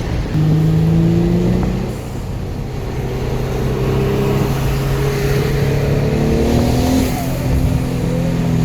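Twin-turbocharged Infiniti G35 coupe's 3.5-litre V6, through a Motordyne Shockwave exhaust, accelerating hard at wide-open throttle. Its pitch climbs, drops at a gear change about two seconds in, climbs steadily for several seconds, then drops at another shift near seven seconds and climbs again.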